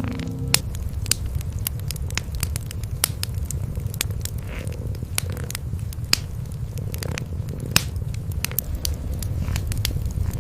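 Cats purring, a steady low rumble, under a wood fire crackling with irregular sharp pops and snaps several times a second.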